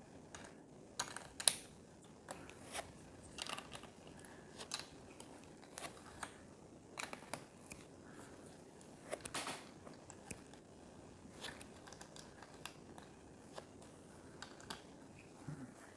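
Plastic Lego pieces being handled and pressed together: a string of faint, irregular clicks and small rattles, the loudest about a second and a half in.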